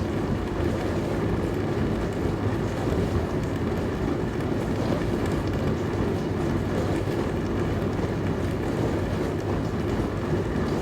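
Dishwasher running: a steady, even rushing noise with a low hum underneath, unchanging throughout.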